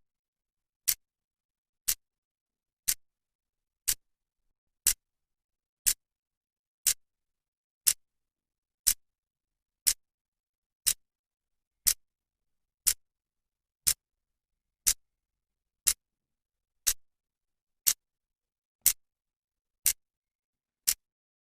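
A clock's second hand ticking once a second: a short, sharp click each second with silence in between.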